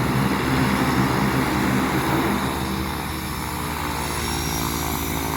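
Propeller engine of a seaplane running steadily during its takeoff from the water, a continuous engine drone.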